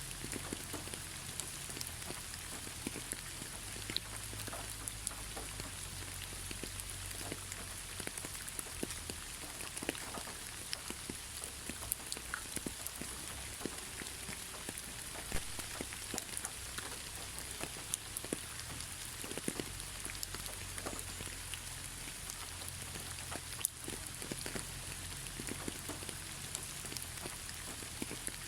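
Steady rain falling: a continuous hiss with many separate drops tapping irregularly throughout.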